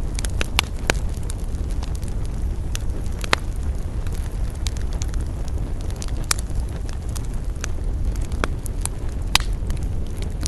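Wood campfire crackling, with irregular sharp pops scattered through it, two louder ones standing out, over a steady low rumble.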